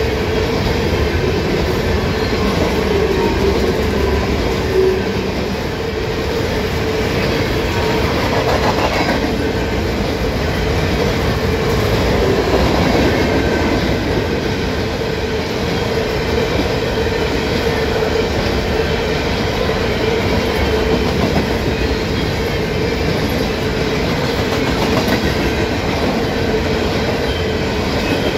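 A freight train of covered grain hopper cars rolling past at close range: a loud, steady rumble of steel wheels on the rails, with a steady ringing tone running underneath.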